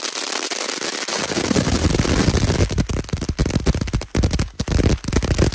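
Ground fountain firework spraying sparks with a dense hiss. From about a second and a half in this turns to a rapid, irregular crackling of many small pops.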